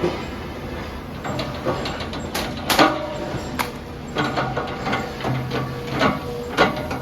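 Demolition work: a machine's engine running steadily under irregular crunches and knocks of breaking and falling rubble, about six, the loudest a little under three seconds in.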